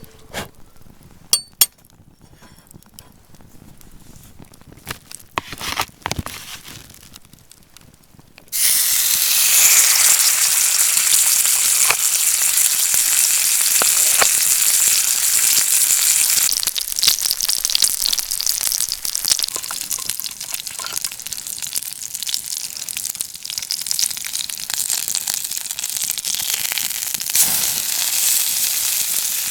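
A few clinks and knocks of cookware, then, about eight seconds in, food hits a hot pan and starts sizzling loudly and continuously.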